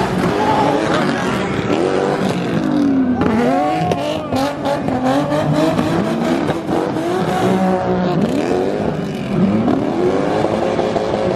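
Drift cars' engines revving hard, the revs swinging up and down again and again as the cars slide with wheels spinning. A short run of sharp pops comes about four seconds in.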